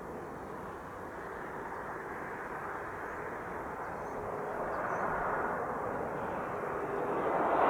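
Dassault Falcon 2000 twin-engine business jet approaching to land, its jet engine roar growing steadily louder as it nears.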